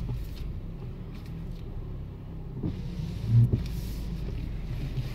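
Steady low hum of a car's running engine, heard from inside the cabin as the car creeps backwards, with one short low thump about three and a half seconds in.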